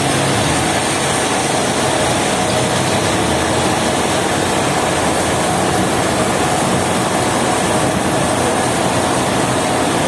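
Woodworking machinery running steadily: an even, unbroken noise with a faint steady hum in it.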